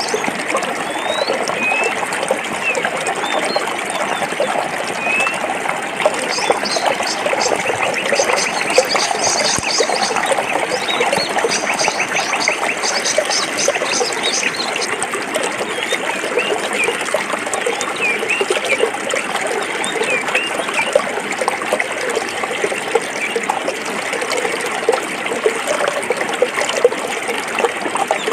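A stream of water flowing and babbling over rocks, a steady, even rush with fine splashing detail throughout. Short high chirps come through over it, with a fast high trill for several seconds near the middle.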